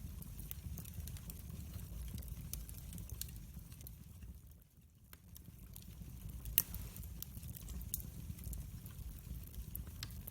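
Wood fire burning: irregular sharp crackles and pops over a low rumble. The sound briefly dips just before the middle, and one louder pop comes about two-thirds of the way through.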